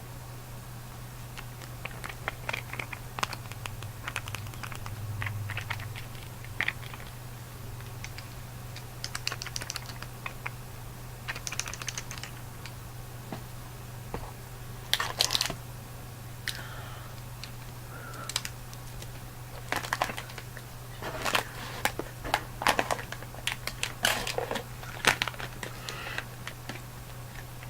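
Close-miked candy eating: scattered clicks, crinkles and crunches of chewing and handling a wrapper, busier in the second half, over a steady low hum.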